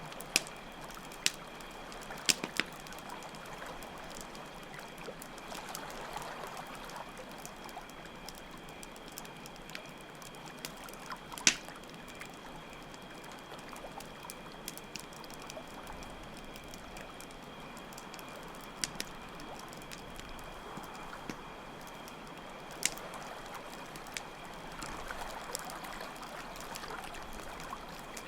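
Campfire crackling with a few sharp, scattered pops, over steady running water and a continuous high trill of crickets.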